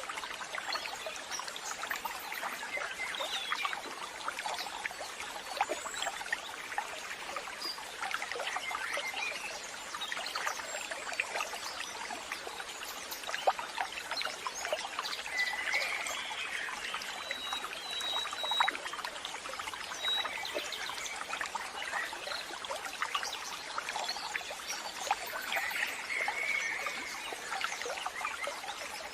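Water trickling steadily, with a few short, high bird chirps around the middle and again near the end.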